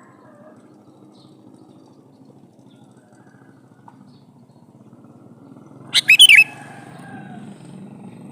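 Sooty-headed bulbul (kutilang) giving one short, loud burst of a few quick notes about six seconds in, over a faint low background hum.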